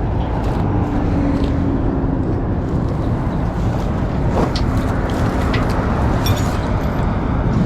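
Steady engine and tyre noise of a tow truck driving on the freeway, a low rumble with a faint steady hum underneath.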